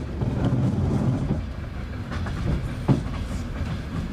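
Trans-Siberian train carriage rolling along, heard from inside: a steady low rumble of wheels on rails with a few sharp clicks as the wheels cross rail joints, the loudest about three seconds in.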